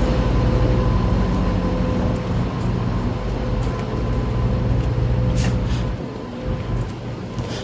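Semi truck's diesel engine idling, with a steady low hum and a thin steady tone above it; the low hum eases about six seconds in, just after two short hisses.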